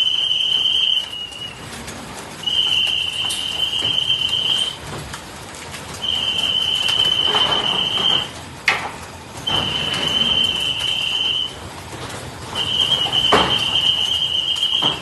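An electronic alarm beeping: a steady high tone held for about two seconds, repeating roughly every three seconds, with a sharp click about halfway and a knock near the end.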